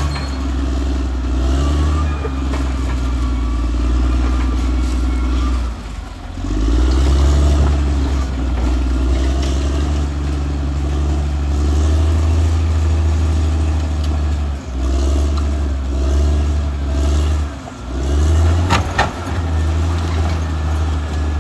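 Caterpillar D6R XL bulldozer's diesel engine running hard under load, its note dropping and picking back up a few times, with a couple of sharp knocks near the end.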